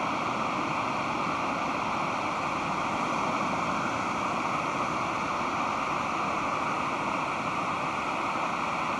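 Pacific Ocean surf breaking on the beach, heard as a steady, even wash of noise with no single wave standing out.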